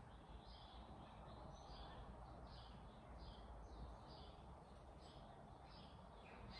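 Near silence: a small bird chirping faintly and steadily, about one and a half chirps a second, over a low hum.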